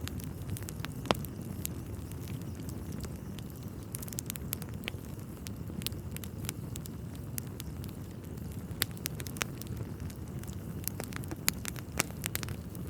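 Log fire burning in a fireplace: irregular sharp crackles and pops over a steady low rumble, with a few louder pops about a second in and again near the end.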